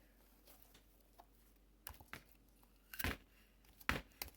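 Glue slime popping and snapping as it is pressed and pulled against a bowl: a handful of sharp sticky pops starting about two seconds in, the loudest near the end.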